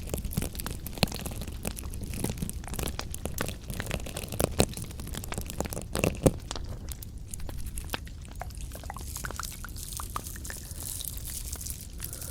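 Close-miked ASMR crunching and crinkling: an irregular run of crisp clicks and crackles, with louder snaps about four and a half and six seconds in, then thinning out to sparser ticks.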